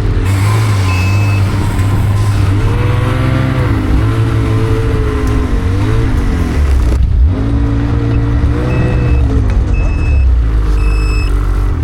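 Snowmobile engine running and revving up and down several times, with a brief drop in throttle about two-thirds of the way through. A few short high beeps sound near the end.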